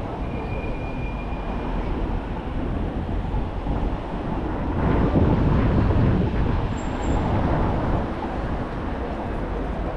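Street traffic noise, with a vehicle passing louder about five seconds in.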